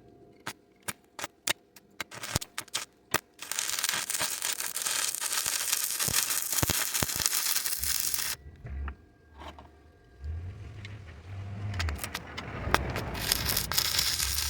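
Stick welding arc from a small 4-in-1 welder running on 110 volts: first a rapid string of sharp pops as the rod is struck and the arc starts and stops, then a steady crackling hiss as the arc runs for several seconds. After a short break the crackle resumes, with a low rumble underneath near the end.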